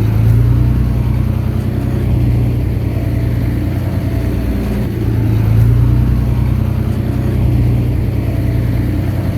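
Heavy diesel engine of earthmoving machinery running steadily with a deep, low hum, its level swelling and easing a few times.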